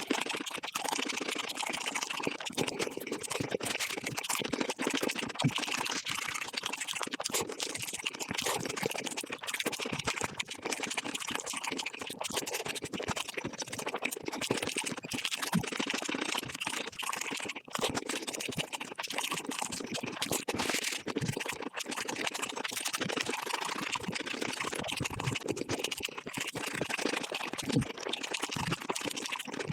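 Close-miked mukbang eating sounds of chicken dishes, crunching and chewing, sped up fivefold so the bites and mouth noises run together into a dense, continuous crackle of rapid clicks.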